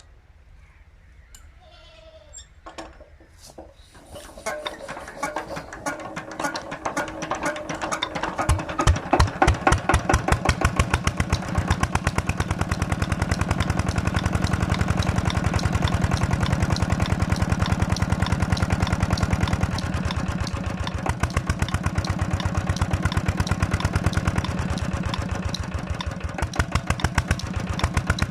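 Petter-type single-cylinder diesel tubewell engine starting. About four seconds in, slow strokes begin; they speed up and grow loud around eight to twelve seconds in as it fires, then settle into a steady, fast running beat.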